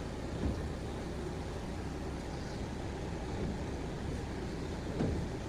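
Steady low rumble, with a short knock about half a second in and another near the end.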